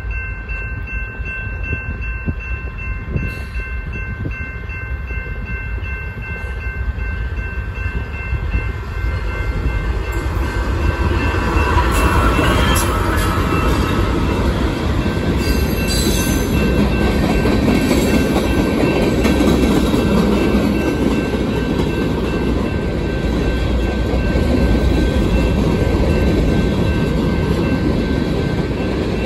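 BNSF freight train approaching and passing close by: the diesel locomotive goes past about twelve seconds in, growing louder, followed by the steady rumble and clatter of the freight cars rolling over the rails.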